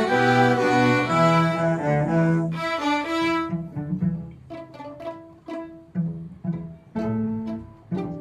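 String orchestra playing, sustained bowed chords over a low cello line, then from about halfway on short, detached notes and plucked pizzicato stabs with gaps between them.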